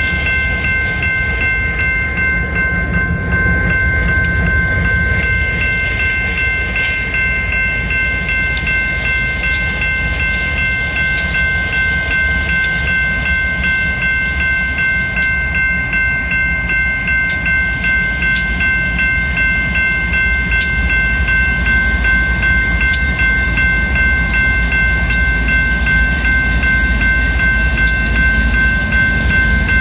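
Diesel-hauled freight train rolling past: a steady low rumble with a sharp click every second or two as wheels cross rail joints, over a steady high-pitched squeal. The rumble grows louder toward the end as the tank cars go by.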